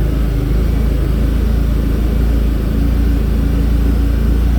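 A vehicle engine running steadily at an even speed, with a strong low drone.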